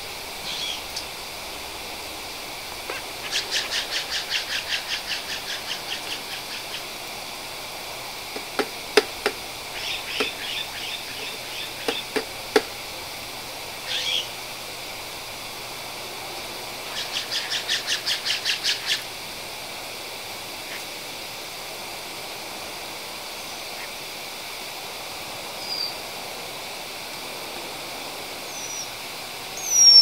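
Bird calls: two rapid series of high chattering notes, about four a second and each lasting several seconds, with a few short single calls between them. Around the middle comes a cluster of sharp knocks or taps, some of them louder than the calls.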